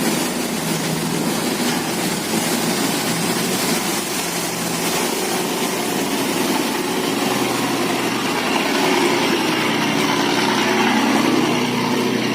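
Engines of motorized wooden boats running steadily as they pass through a sluice gate, a bit louder in the second half.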